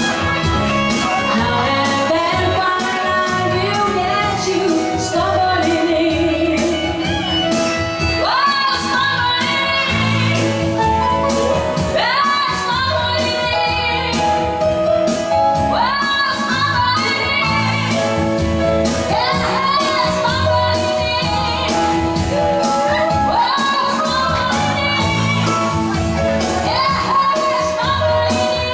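A woman singing a pop song with instrumental accompaniment and a steady beat. Her sung phrases scoop up in pitch at the start of each line, about every four seconds.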